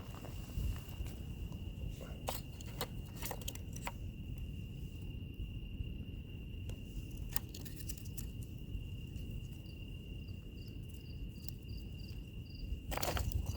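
Wood fire crackling with a few sharp pops and a burst of crackles near the end, under a steady high trill of insects. About ten seconds in, a second insect joins with regular chirps a little over two a second.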